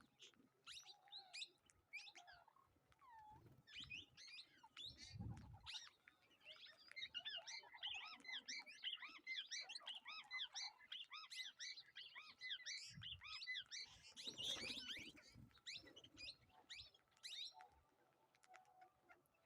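A flock of birds chirping and calling over one another, faint, with many quick chirps that grow thickest in the middle and thin out near the end. A few low thuds come in between.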